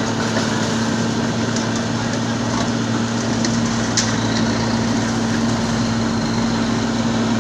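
An engine running steadily at a constant speed, with a steady low hum, and a single sharp click about four seconds in.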